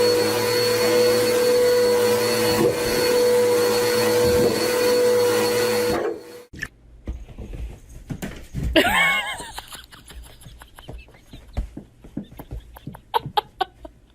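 A small electric motor, like a vacuum cleaner's, running with a steady whine, which stops about six seconds in. After that come quieter scattered clicks and one short wavering sound about nine seconds in.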